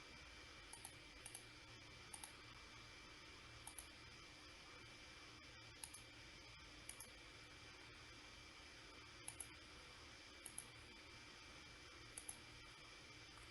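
Faint computer mouse clicks, each a quick press-and-release pair, about nine of them at irregular intervals of one to two seconds, over a low steady electrical hum.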